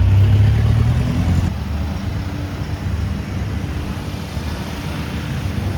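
An engine running with a steady low rumble, loudest in the first second and a half, then dropping to a lower, continuing drone.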